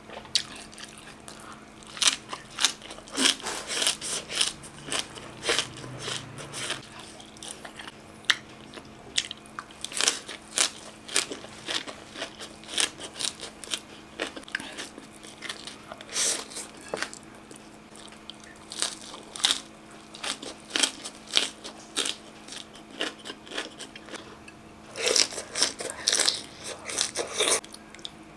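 Close-miked eating: irregular sharp crunches, bites and chewing of crisp shredded green mango salad, boiled fiddlehead greens and grilled chicken tail skewers, with a dense run of crunches near the end.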